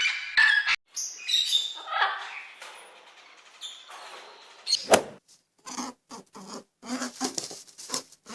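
A run of short animal calls and squeaks from several different clips, cut one after another, with a sharp click about five seconds in.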